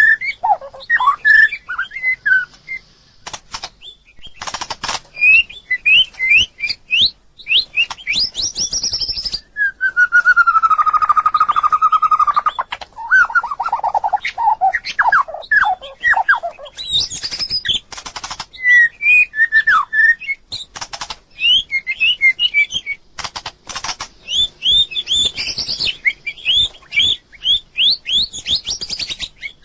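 White-rumped shama singing a varied song of loud whistled phrases, quick sweeping notes and sharp clicks, with a longer, lower whistled note about ten seconds in.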